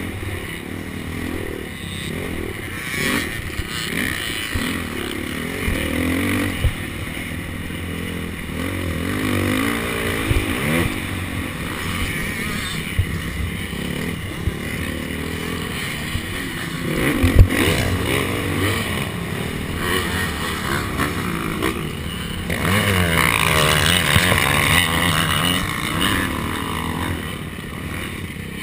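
KTM SX250F single-cylinder four-stroke motocross engine revving up and down as the bike is ridden around the track, with clattering from the bike. There is a sharp knock about two-thirds of the way through.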